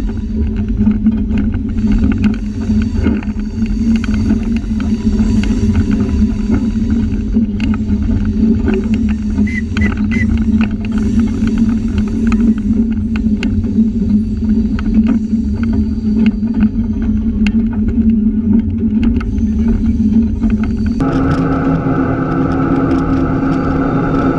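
Diesel switcher locomotive running steadily under a constant low drone, with light clicks from the train rolling along. About three seconds before the end the sound changes abruptly to a different, more tonal note.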